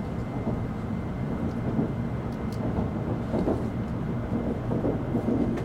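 Interior running noise of an N700 series Shinkansen car: a steady low rumble.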